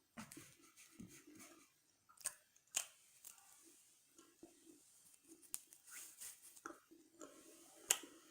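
Chewing french fries close to the microphone: soft, irregular crunches and mouth sounds, with a few sharper crisp clicks.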